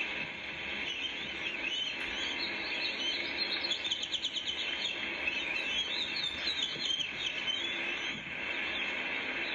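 Birds chirping in quick calls and short rapid trills, busiest in the middle, over a steady hiss.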